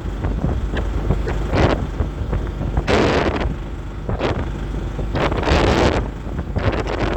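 Wind buffeting the microphone over a steady low rumble, with louder gusts about three seconds in and again near the middle and the end.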